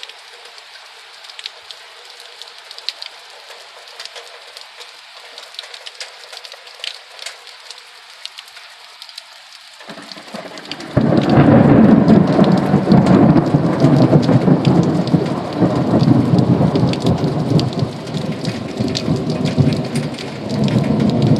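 Steady rain with individual drops tapping. About ten seconds in, a long, loud rumble of thunder sets in and rolls on for roughly ten seconds before dropping off near the end.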